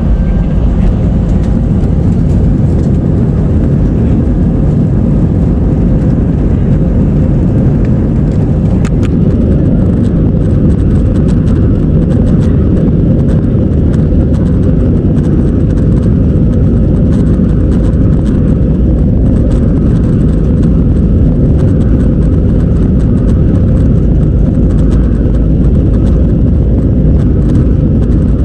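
Airliner cabin noise: a loud, steady rumble from the engines and airflow with a steady hum, and many small rattles and knocks from the cabin.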